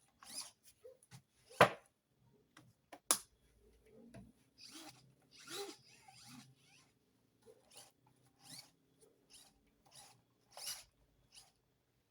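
Small RC airplane servos moving in short, irregular buzzing bursts, about a dozen of them, as the controls are worked. They are being tested after the stuck throttle was freed.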